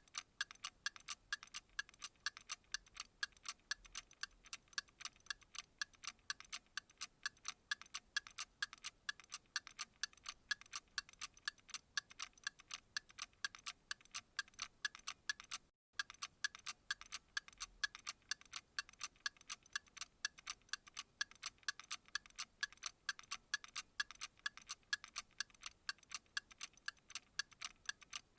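Clock ticking in a steady, fast, even rhythm of several light ticks a second. It drops out for a split second about halfway through.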